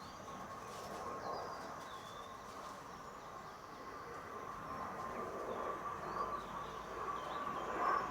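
Garden birds giving short, high chirps several times over a steady background hum.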